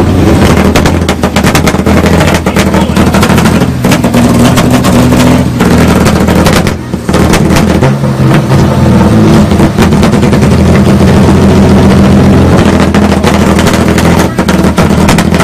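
Car engines revving hard through aftermarket exhausts at a rev battle, with rapid crackles and pops from the exhaust. The sound is very loud and stays at a steady high level, with a brief dip about seven seconds in.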